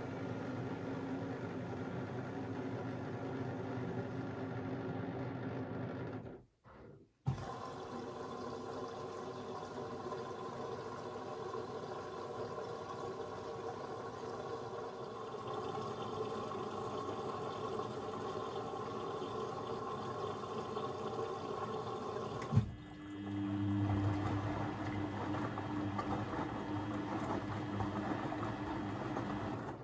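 Beko WMB 71643 PTE washing machine running with water flowing, a steady rushing sound. It cuts out briefly about six seconds in and resumes with a click; after a second click about 22 seconds in, a steady low hum sets in under the water.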